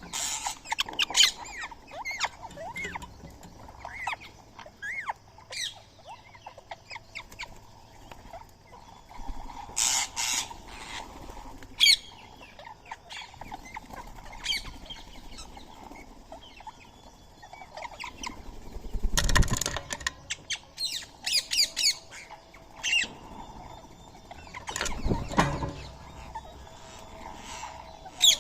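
Indian ringneck parakeets and other birds calling at a feeding spot in scattered short, shrill chirps and squawks. Two louder flurries of wing flapping come about two-thirds of the way through and again near the end.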